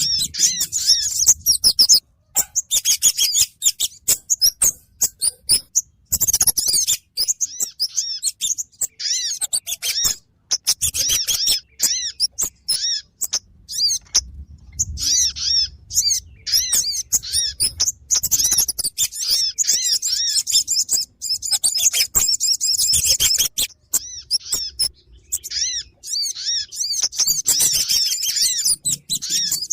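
Bird-lure calls of kemade and sogon: rapid, high-pitched chirps and twitters repeated in dense bursts with brief pauses between them.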